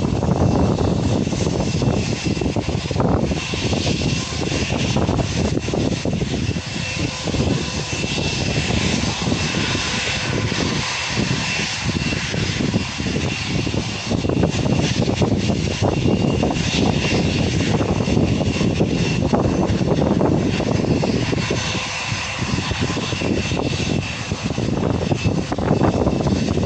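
Jet airliner engines running loud and steady, a broad rush with a thin high whine held throughout.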